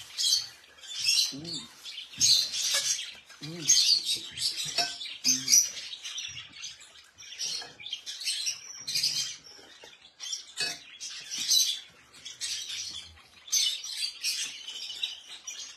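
Caged birds chirping in quick, high-pitched bursts, over and over.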